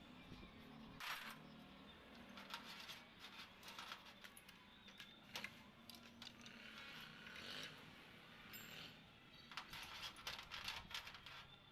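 Faint, scattered metallic clicks and clinks of hand tools and small metal parts being handled during tractor clutch work, with a busier run of clinks near the end.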